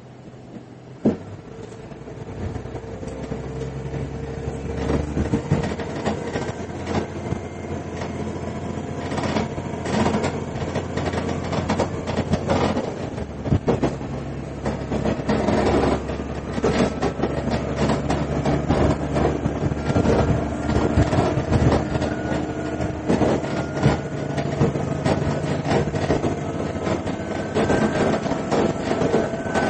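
Diesel railcar heard from inside the car, pulling away and gathering speed. The engine drone rises in level and steps in pitch, while wheel clicks over the rail joints grow louder and more frequent. A single sharp click comes about a second in.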